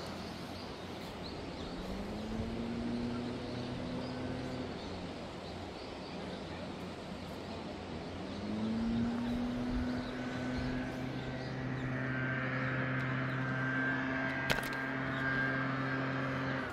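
An engine running, its hum rising in pitch twice and then holding steady, with one sharp click near the end.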